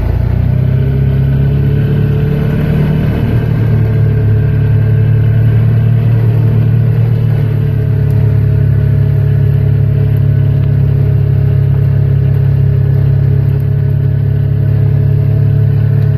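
A vehicle engine running steadily at an even, low pitch, with no revving.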